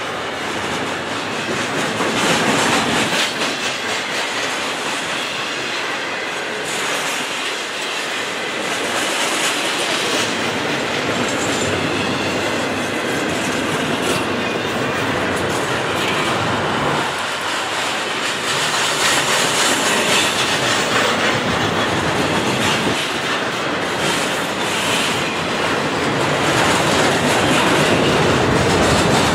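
Double-stack intermodal container train rolling past, its well cars' wheels running on the rails with a steady noise that grows a little louder near the end.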